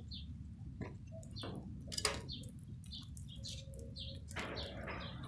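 Small birds chirping repeatedly over a low steady rumble, with a few sharp snaps (the loudest about two seconds in) and a rustle near the end.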